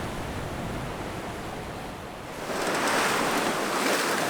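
Wind and sea water rushing along a sailboat under way, a steady rushing noise that turns louder and hissier a little past halfway through.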